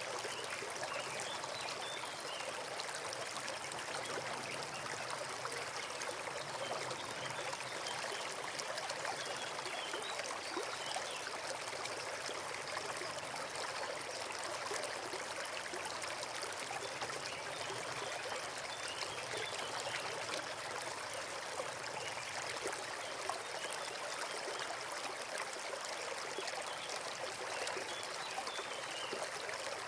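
Forest stream running over stones, a steady rush and trickle of water.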